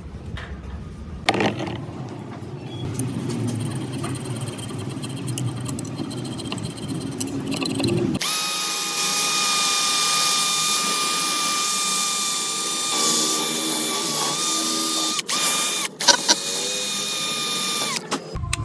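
Scraping and rubbing for the first several seconds. Then an electric power tool starts and runs at a steady high speed with a whine, cutting out briefly a few times near the end.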